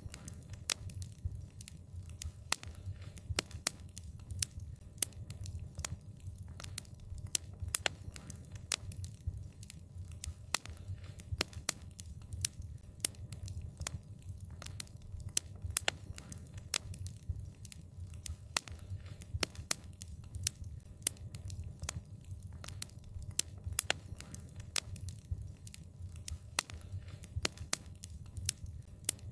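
Wood fire crackling, with frequent sharp pops and snaps at irregular intervals over a low, steady rumble of burning.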